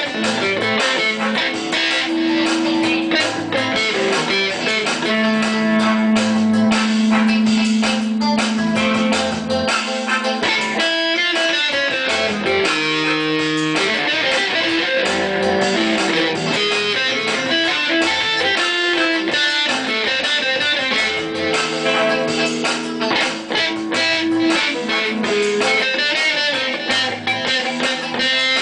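Electric guitar music: quick runs of picked notes mixed with long held notes, played steadily throughout.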